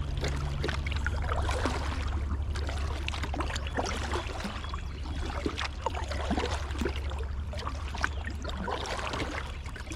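Water splashing and trickling around a kayak on a flowing river: many small, irregular splashes and drips over a steady low rumble.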